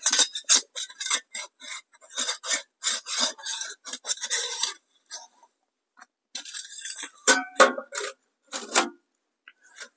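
Metal stovepipe sections being fitted together by hand: thin sheet metal scraping and clinking, in a busy first bout of about five seconds, then, after a short pause, a second, shorter bout.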